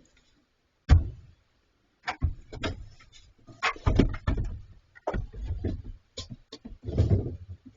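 Irregular knocks, thumps and scrapes: a single sharp bang about a second in, then a run of heavy bumps and clatters, as bears push and knock about a refrigerator left outdoors.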